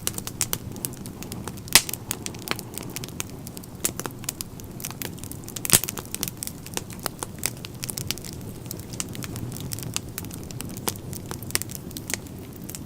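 Wood fire crackling in a fireplace: frequent irregular pops and snaps over a steady low rush of flame, with one louder pop about six seconds in.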